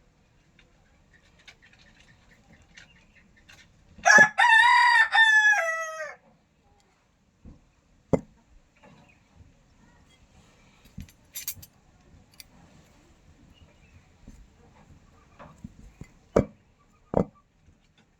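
A rooster crows once, a call of about two seconds that drops in pitch at the end. A few sharp knocks follow later.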